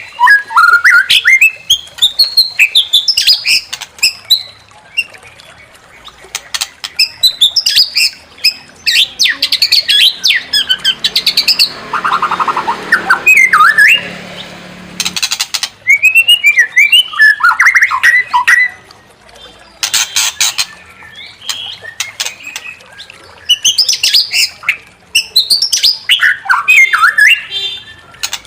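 White-rumped shama (murai batu) singing a loud, varied song in phrases: quick whistles sweeping up and down, mixed with harsh clicking, chattering notes and short pauses between phrases.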